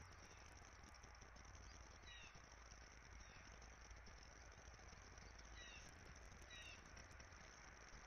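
Near silence: a steady faint hiss, with a few faint short bird calls about two seconds in and twice more near the end.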